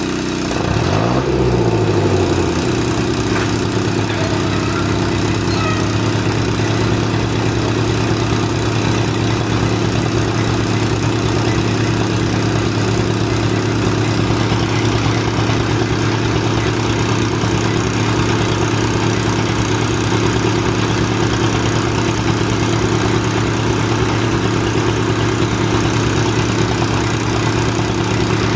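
An engine on drilling equipment running steadily under a constant load. Its pitch swings briefly about a second in, then holds steady.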